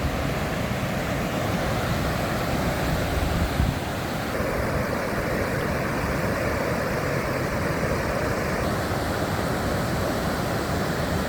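Waterfall swollen by heavy rain, a steady loud rush of falling water.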